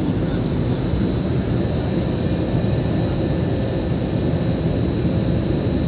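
Jet airliner noise during landing: a steady low rumble with a thin high whine running through it.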